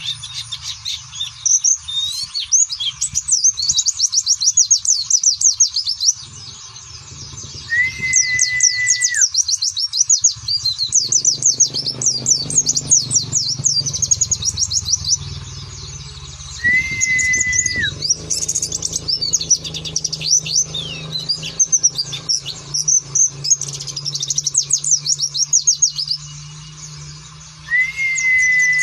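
Pleci (white-eye) songbird twittering: a dense run of very quick, high chirps in the 'ngeriwik' style, going in rapid bursts with short pauses. A long, level whistle that drops at its end comes in three times, about every nine seconds.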